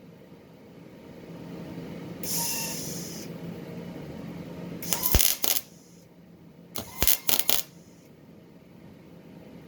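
A brief hiss lasting about a second, then several sharp knocks and clinks in two groups, one around the middle and one a couple of seconds later, over a low room hum.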